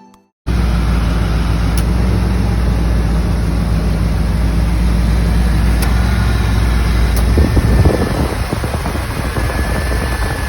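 V8 engine of a 1992 Oldsmobile Custom Cruiser running steadily at idle, starting suddenly about half a second in; the sound grows rougher and less even near the end.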